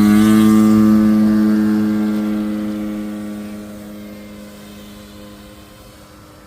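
Large RC model airplane's motor and propeller at full throttle on its takeoff run, a steady drone that fades over about four seconds as the plane flies away.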